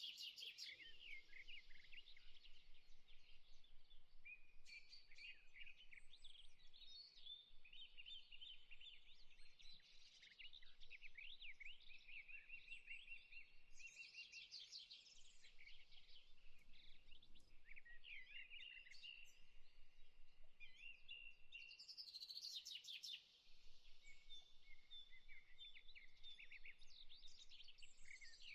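Faint chorus of many small birds chirping and trilling, their calls overlapping without a break.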